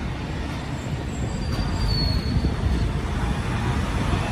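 Macau Light Rapid Transit train, a rubber-tyred Mitsubishi Crystal Mover, running with a steady low rumble, and a brief high whine about two seconds in.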